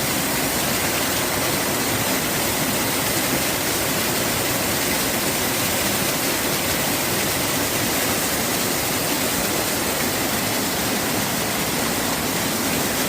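Steady rushing of running water: an even, unchanging noise with no separate events.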